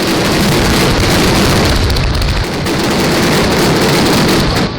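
Fireworks going off in a dense, rapid barrage of overlapping bangs and crackles, easing briefly about halfway and then stopping suddenly near the end.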